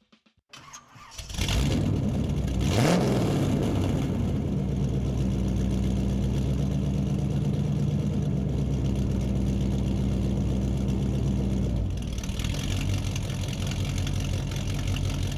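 Car engine starting and revving once, then settling into a steady idle; about twelve seconds in the low note drops away and a hiss comes up.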